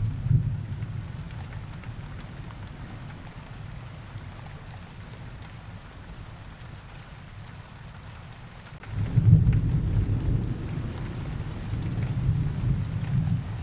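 Rain falling steadily, with thunder. A deep rumble dies away over the first few seconds, and a second roll of thunder breaks in suddenly about nine seconds in and rumbles on until near the end.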